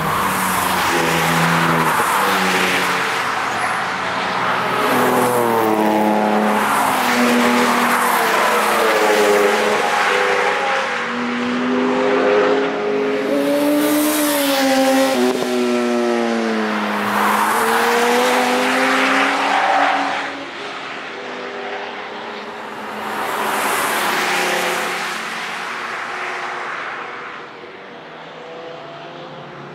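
Several cars driven hard on a racetrack, passing one after another. Their engines rev and their pitch swells and falls away as each goes by. It gets quieter after about twenty seconds.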